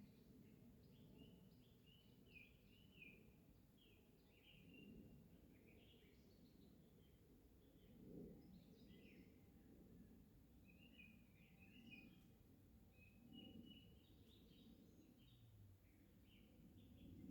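Faint dawn chorus in a forest: several small birds chirp and trill in short, scattered phrases over a low background rumble.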